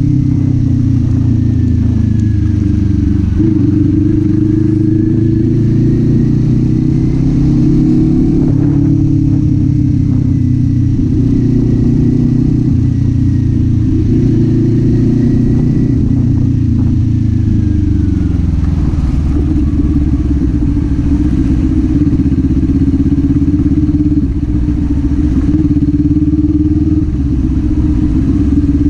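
Kawasaki Z400's parallel-twin engine running under way, its note rising and falling with the throttle, with the revs dropping about two-thirds of the way through.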